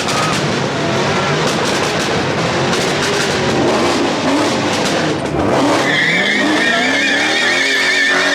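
A car doing a burnout: the engine revs up and down under a loud rushing tyre noise, and from about six seconds in a high, wavering tyre squeal joins in.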